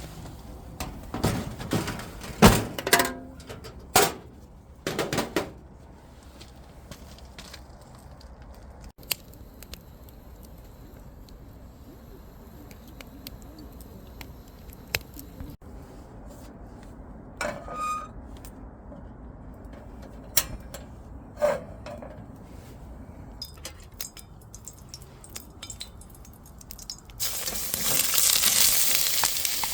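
Camp cookware and utensils clinking and knocking for the first few seconds, then scattered light clicks. Near the end a pan suddenly starts frying with a loud, steady sizzle.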